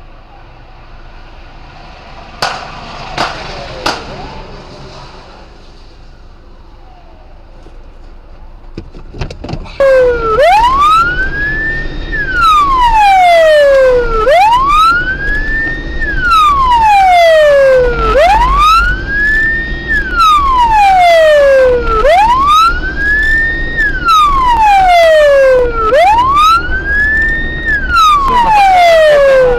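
Police car siren wailing loud and close, its pitch sweeping slowly up and down about once every four seconds. It starts about a third of the way in, over a low vehicle rumble, with a few sharp clicks before it.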